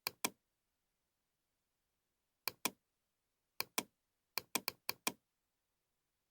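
Computer mouse buttons clicking: about eleven sharp clicks, mostly in quick pairs like double-clicks, with a faster run of five a little after the middle.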